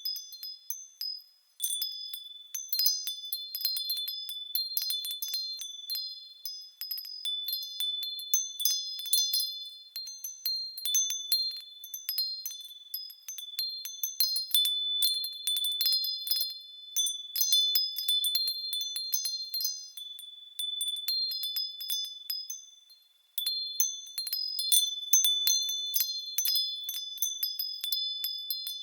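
Japanese fūrin wind bells ringing as the wind swings them, their clappers striking in irregular clusters of clear, high ringing tones. The ringing briefly dies away twice, shortly after the start and about two-thirds of the way through.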